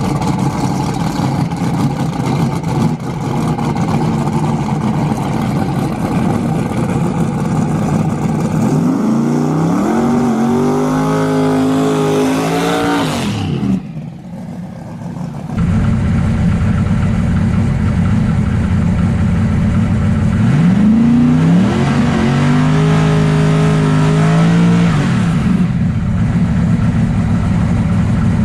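Drag racing car engines running loudly, with two rev-ups that each climb in pitch, hold for a few seconds, then drop back.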